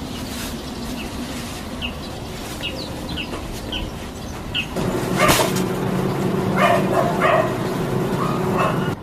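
Small birds chirping in short falling notes, then, from about halfway, a dog barking a few times over a steady low hum.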